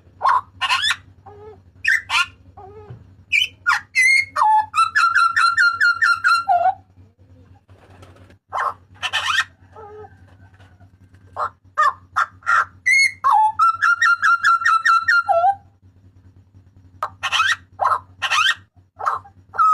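Butcherbird (jagal papua) giving loud, shrill calls: runs of rapid repeated notes, quick upward and downward whistled slides, and sharp clipped notes, with a quieter pause about halfway through. A faint steady hum lies underneath.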